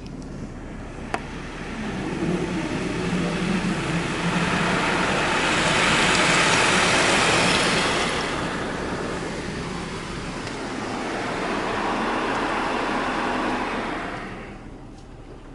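Ryko SoftGloss XS automatic car wash working over the car: a rushing noise with a low machine hum that swells to a peak about six to eight seconds in, dips, rises again and fades away near the end. A single sharp click about a second in.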